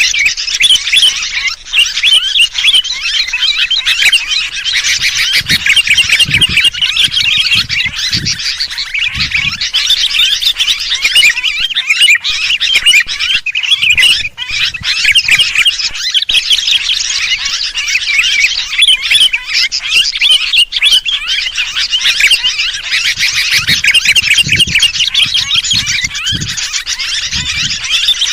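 Sooty-headed bulbuls (kutilang) chattering in a dense, agitated flock, a continuous overlapping stream of sharp, high calls used as a bird-lure recording. Faint low thuds come twice, a few seconds in and again near the end.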